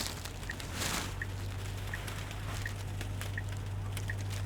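Car turn signal ticking evenly, about three ticks every two seconds, over a low steady hum inside the cabin of a Tesla, with a brief swish about a second in.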